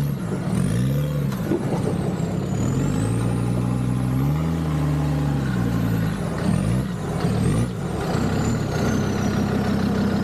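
Land Rover Discovery 2's TD5 diesel engine working through an off-road obstacle, its revs rising and falling several times with a thin high whine that follows the engine speed. There are a couple of brief knocks or scrapes about two-thirds of the way through.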